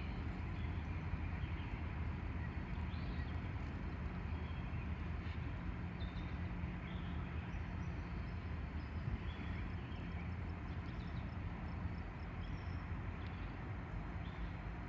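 A freight train's diesel locomotive running with a steady low drone over an even rumble. Faint bird chirps scattered throughout.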